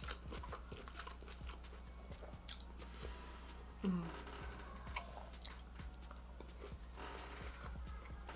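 Close-miked chewing and wet mouth smacks of someone eating sauce-dipped seafood, with many small clicks. One louder mouth sound, falling in pitch, about four seconds in.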